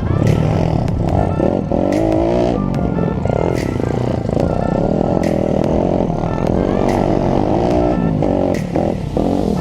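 YCF SP3 pit bike's single-cylinder four-stroke engine being ridden hard, its pitch rising through each gear and dropping back again and again as the rider accelerates and shifts, with background music.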